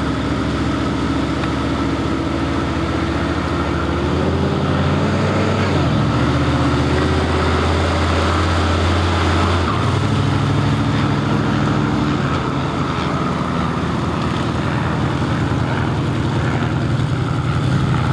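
An engine running steadily, its pitch stepping up about four seconds in and dropping back about ten seconds in.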